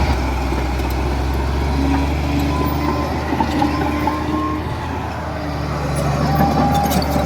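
Heavy diesel engine of construction machinery running steadily with a deep hum, a higher tone coming and going in the middle.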